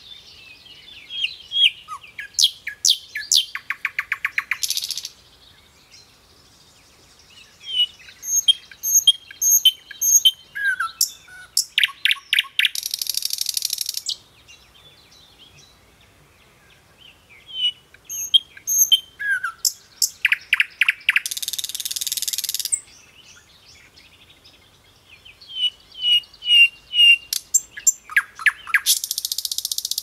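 A songbird singing four similar song phrases. Each phrase is a run of high chirps and fast trills ending in a buzzy rasp, with short pauses between phrases.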